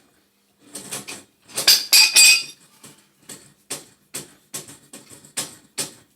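Metal hand tools and fittings clinking while a boiler gas-valve fitting is taken apart: a few louder clanks in the first two seconds or so, then a run of short, evenly spaced clicks about two a second.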